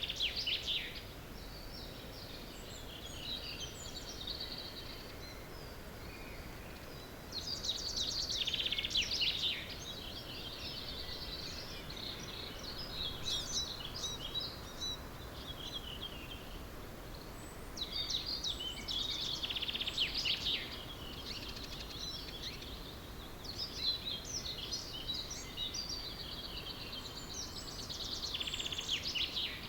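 Dawn chorus of several songbirds singing, with one loud song of about two seconds, falling in pitch at its end, repeated about every ten seconds among shorter calls and chirps.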